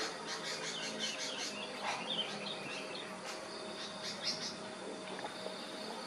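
A flock of bulbuls chirping and calling in quick short notes, most busily in the first couple of seconds and again about four seconds in, over a steady high insect trill.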